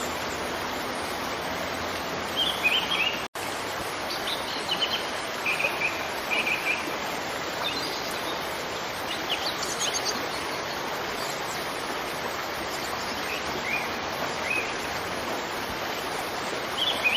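Steady rush of a waterfall, with small birds chirping in short scattered bursts over it. The sound cuts out for an instant about three seconds in.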